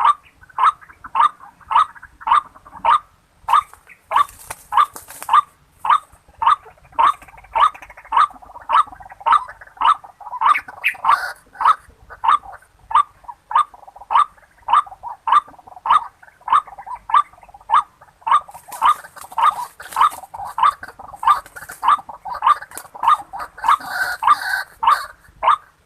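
White-breasted waterhen calls: a harsh 'kru-ak' repeated very evenly about twice a second without a break, with patches of faint hiss near the start and in the last third.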